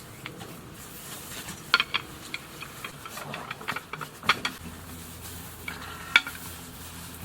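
Camp cookware being handled: a handful of sharp clinks with a short ringing, as from a utensil stirring and knocking in a pot, over a soft sizzle. A low steady hum starts about halfway through.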